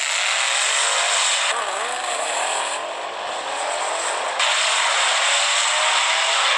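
A Dodge Challenger and a superbike accelerating hard down a drag strip, their engine notes rising and dipping through gear changes over a steady hiss.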